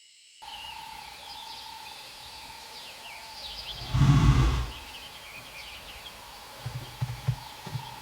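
Wild birds chirping over a steady natural background with a faint continuous tone, broken about four seconds in by one loud, low sound lasting about half a second.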